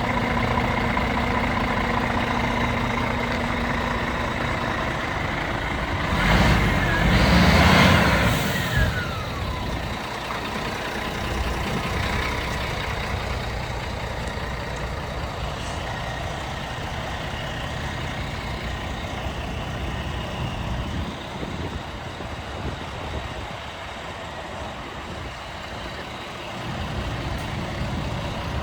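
Scania P450 truck's 13-litre straight-six diesel engine running steadily. About six seconds in it surges louder for a couple of seconds, and a whistle falls away as the surge ends.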